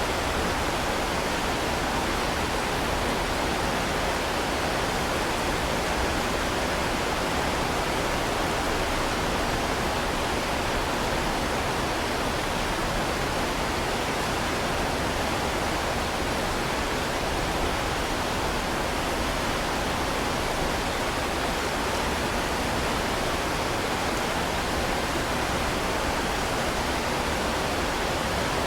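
Heavy rain falling as a steady, dense hiss that does not change, with no single drops or thunder standing out.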